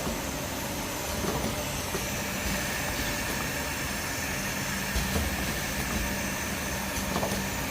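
Automatic rotary perfume filling and capping machine running: a steady mechanical noise with a few short knocks, and a faint steady hum that comes in about two seconds in.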